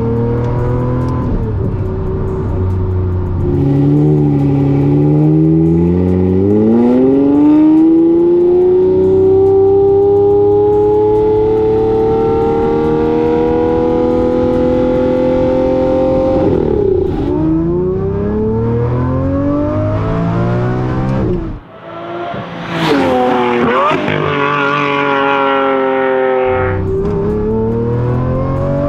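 Lamborghini Murcielago SV's 6.5-litre V12 under acceleration: the revs climb slowly and steadily for about twelve seconds, drop, and climb again. Near the middle of the second half the sound cuts out briefly, then the engine revs up high and louder, with a harsher edge, before settling back to a steady cruise.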